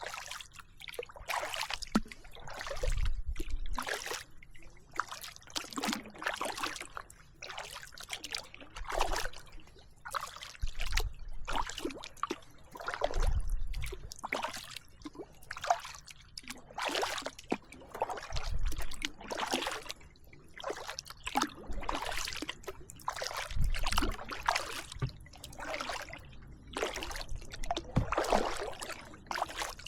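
Kayak paddling: the paddle blades splash into the water and drip in a steady rhythm of about one stroke a second, with occasional low thumps.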